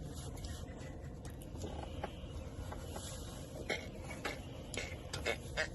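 Faint, scattered light clicks and taps of hand tools and mower parts being handled, over low steady background noise.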